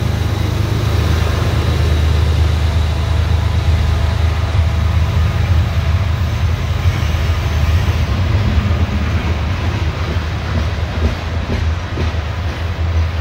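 Heavy CSX coal train passing close on an upgrade: a steady, loud, deep diesel rumble from the mid-train helper locomotives as the last unit goes by, then coal hopper cars rolling past with wheel clatter on the rails. The rumble eases a little near the end.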